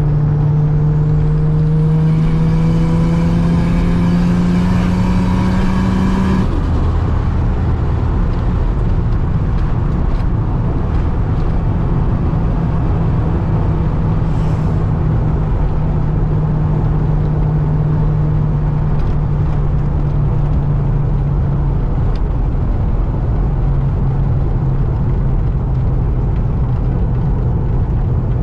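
Nissan Stagea engine under full-throttle acceleration, its note rising steadily for about six seconds until the throttle is suddenly lifted. After that comes a steady cruising drone with road noise.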